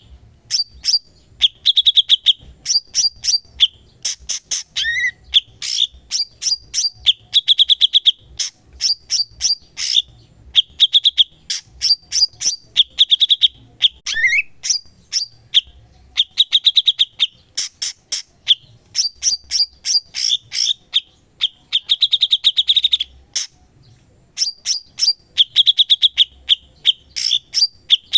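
Cucak cungkok songbird singing in full voice (gacor): rapid rattling trills repeated every second or two, mixed with sharp clicking chips and two upward-sliding whistles.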